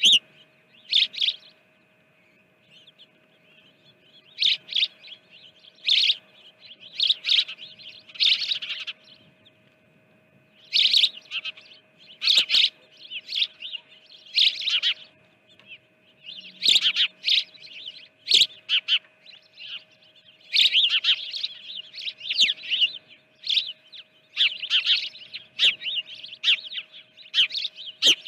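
Small birds chirping: short, high calls in quick clusters every second or two, after a brief lull near the start.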